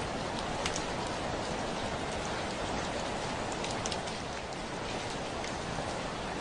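Steady heavy rain on a window: an even rushing hiss with scattered sharp ticks of single drops striking the glass.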